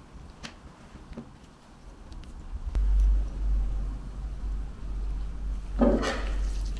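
Packaging being handled: a few soft clicks, then a crinkling rustle about six seconds in as gloved hands lift a replacement UV-Vis spectrophotometer lamp out of its foam insert. A steady low rumble sets in about three seconds in and is the loudest sound.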